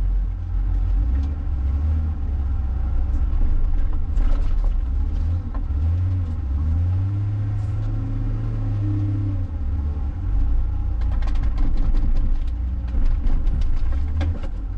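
John Deere 544K wheel loader's diesel engine running, its revs rising and falling as it pushes snow. A few clanks and rattles come through about four seconds in and again near the end.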